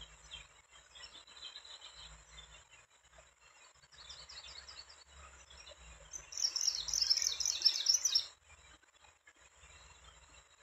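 A bird chirping: faint high chirps at first, then a rapid, louder run of high chirps lasting about two seconds, starting some six seconds in.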